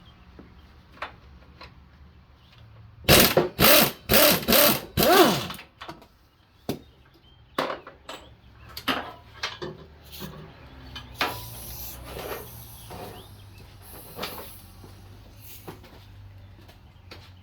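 Power drill run in four short bursts, its pitch rising and falling with the trigger, followed by scattered tool clicks and knocks.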